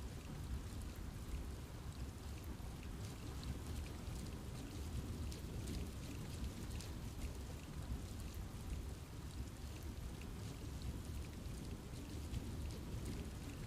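Steady rain falling in a forest, with many individual drops ticking on leaves and a constant low rumble under the patter.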